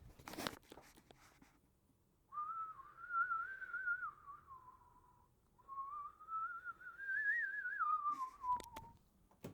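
A person whistling two long wavering notes. The first holds fairly level and then drops. The second climbs slowly and then slides down. A short knock comes about half a second in.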